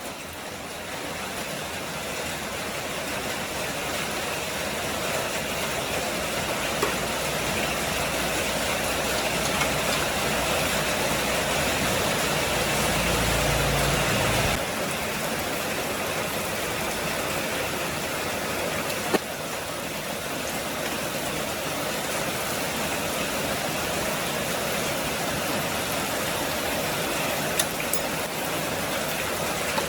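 A small motor running with a steady hissing noise; its low hum cuts off suddenly about halfway through, while the hiss goes on.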